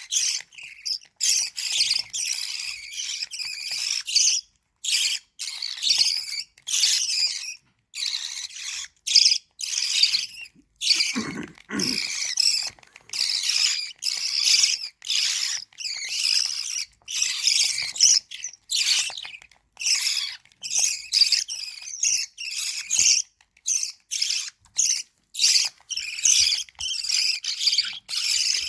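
Lovebird chicks begging to be fed: rapid, high-pitched, raspy calls repeated over and over with only brief breaks. A short, lower-pitched sound comes in about eleven seconds in.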